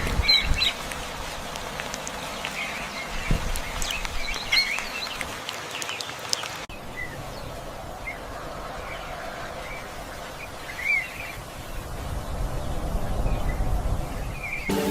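Birds chirping and calling, with short chirps scattered over a steady outdoor background hiss. The background changes abruptly about halfway through.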